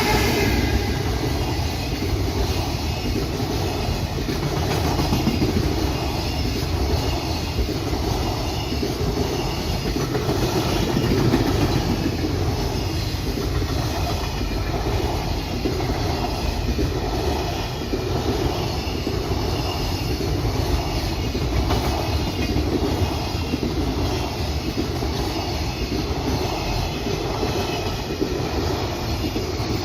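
Freight train rolling past, a long string of wagons with the wheels clacking over rail joints in a steady rhythm about once a second over a continuous rumble.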